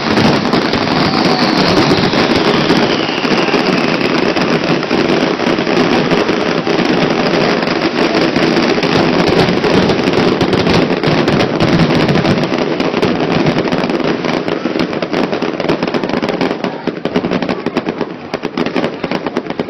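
Fireworks finale: a dense, continuous barrage of loud bangs and crackling, with a whistle falling in pitch about two seconds in. Near the end the barrage thins into more separate bangs.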